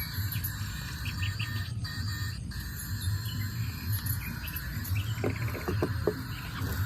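Birds chirping and an insect trilling, with a fast trill about five seconds in, over a low pulsing rumble.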